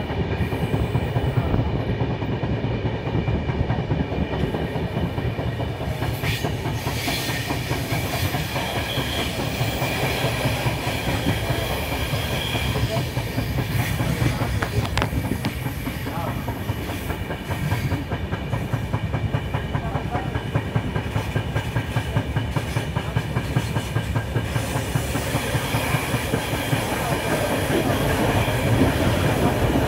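Passenger express train running along the track while climbing a gradient: a steady rumble of the coach with the clickety-clack of wheels over rail joints.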